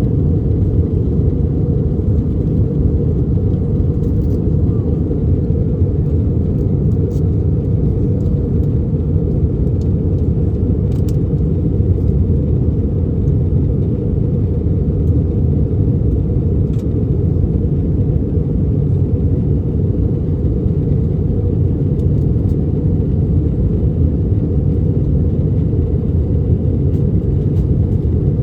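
Steady low rumble of an Airbus A319 airliner's engines and the airflow over the fuselage, heard inside the passenger cabin during the descent to land.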